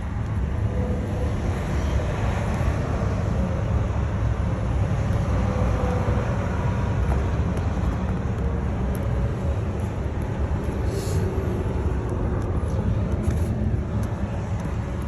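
Steady low rumbling background noise with no clear events, the kind of noisy surroundings later apologised for as 'the noise'.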